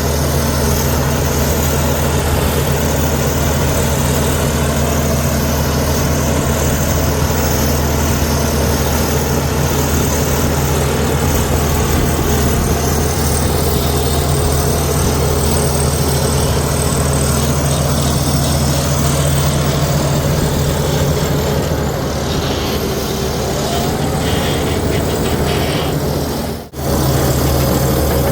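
Komatsu D61EX bulldozer's diesel engine running steadily with a deep, even hum. The sound cuts out for a moment near the end.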